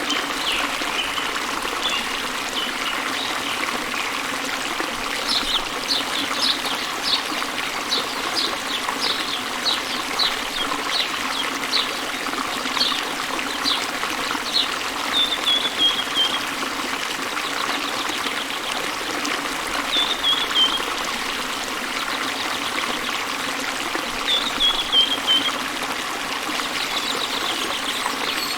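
Small waterfall splashing into a river: a steady rush and trickle of water. Over it a bird sings high, first a run of short chirps about one to two a second, then a few short falling trills.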